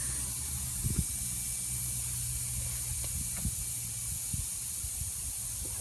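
Air hissing steadily out of a tubeless car tyre punctured by a long screw.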